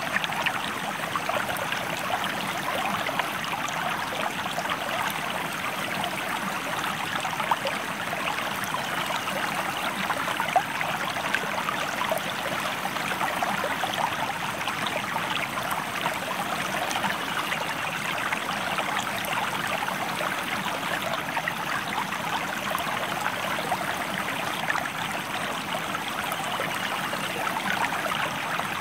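Stream flowing: a steady rush of water full of small splashes and trickles, even in loudness throughout.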